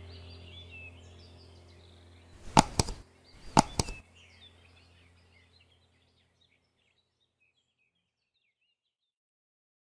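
Faint bird chirps over a low steady hum, both fading away, broken by two sharp clusters of knocks or whooshes about a second apart, the loudest sounds here.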